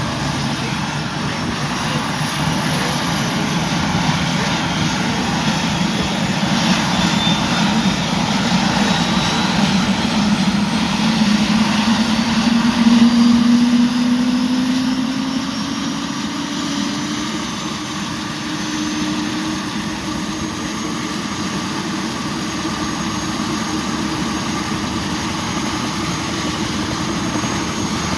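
Helicopter flying by, a continuous engine and rotor drone that grows louder to a peak about halfway through, its low whine rising in pitch, then settles to a steady drone.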